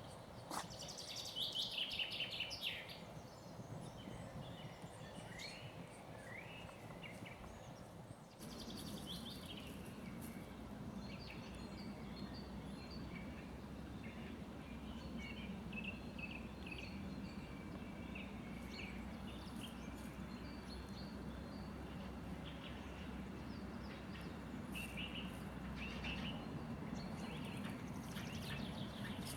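Several forest songbirds singing and calling in a spring morning chorus, with short chirps and trills throughout and a louder song burst about two seconds in. A low steady rumble underlies them, growing stronger about eight seconds in.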